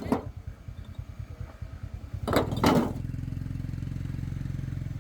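A small engine running with a fast low throb that settles into a steady hum about three seconds in. A little after two seconds there are two loud, short scraping or clattering strokes.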